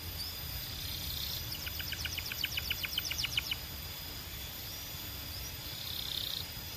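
Canary singing a fast trill of about ten repeated notes a second, lasting about two seconds, with a couple of faint short chirps. A steady high-pitched hum runs underneath.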